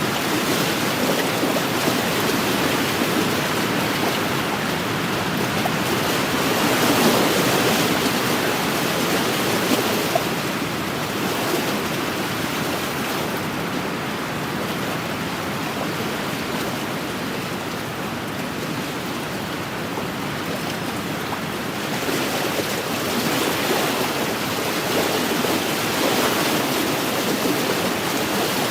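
Wind-driven waves washing against an inland lakeshore, with the wind gusting. The rush swells and eases, loudest about seven seconds in and again near the end.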